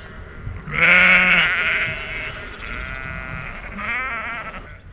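Sheep bleating: three wavering bleats, the loudest and deepest about a second in, two more following.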